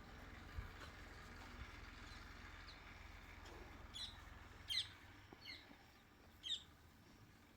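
A small bird chirping: about five short, high, downward-slurred chirps in the second half, over a faint low hum.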